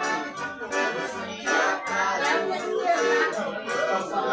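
Accordion-led traditional dance music with a steady percussion beat.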